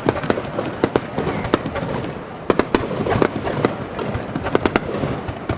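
Fireworks exploding in quick, irregular succession: many sharp bangs and cracks each second over a continuous rumble of further bursts.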